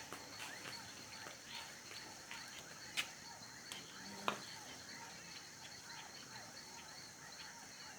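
Faint crackling and popping of a wood bonfire, with two sharper pops about three and four seconds in, over a steady high chirring of evening insects.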